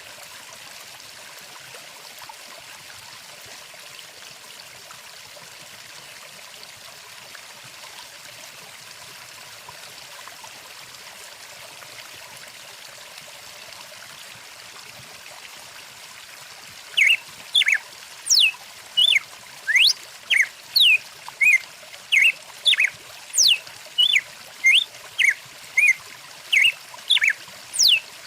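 Steady flowing stream water throughout. About two-thirds of the way in, a bird starts calling loudly and repeatedly: short, high chirps sweeping in pitch, about one to two a second, louder than the water.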